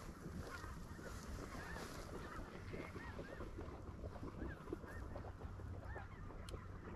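A flock of greater white-fronted geese (specklebellies) calling continuously, many short high calls overlapping, with a single sharp click near the end.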